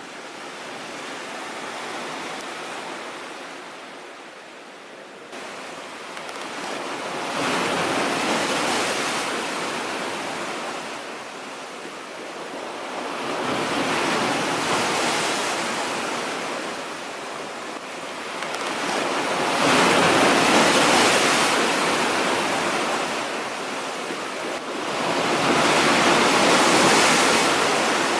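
Storm waves breaking on the shore, the surf swelling and falling back about every six seconds, with the later breakers the loudest.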